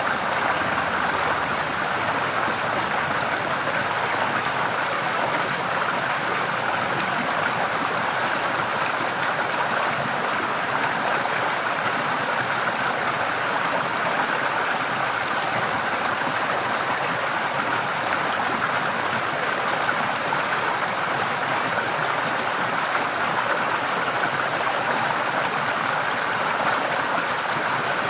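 Forest stream flowing steadily, an even rushing of water.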